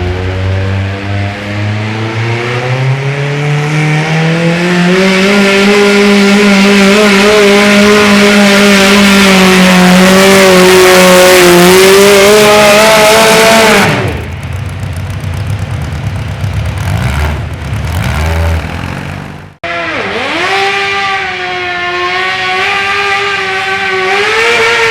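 Pulling garden tractor's engine revving up over the first few seconds and held at high revs under load for about ten seconds, then dropping off sharply. After a brief break, an engine is heard running again, dipping and then revving up near the end.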